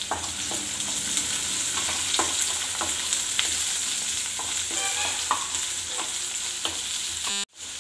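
Chopped onions and curry leaves sizzling in hot oil in a non-stick kadai, stirred with a wooden spatula that knocks and scrapes against the pan in scattered clicks. The sound cuts out for a moment near the end.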